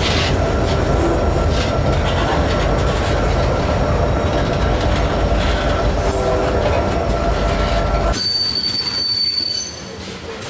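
Freight train tank cars rolling past close by: steady rumbling of wheels on rail with faint squealing tones. About eight seconds in the sound cuts to a quieter stretch with thin, high-pitched wheel squeal.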